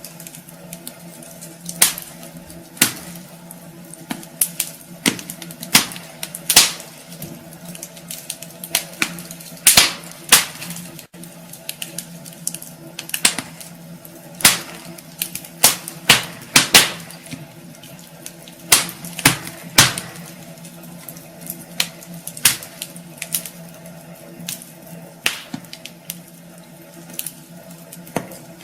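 Wood fire burning in a fireplace, crackling with irregular sharp pops, sometimes in quick clusters, over a steady low hum.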